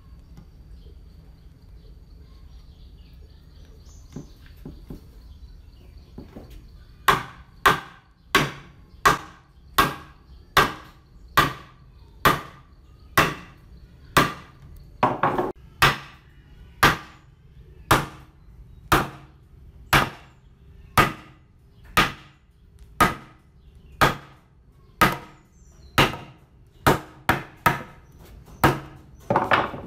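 A hammer striking wood in a steady series of sharp blows about once a second, starting about seven seconds in after a few faint knocks.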